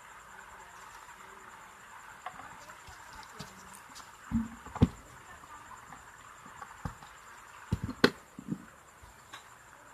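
Scattered clicks and knocks of parts being handled and fitted while an electric clothes iron is put back together, with a few louder taps about halfway through and again around eight seconds in, over a faint steady hiss.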